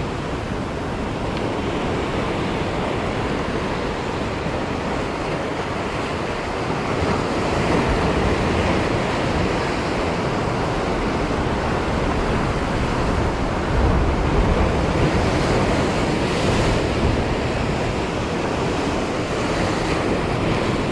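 Sea surf washing and breaking steadily against a tetrapod breakwater, swelling and easing in loudness, with wind buffeting the microphone.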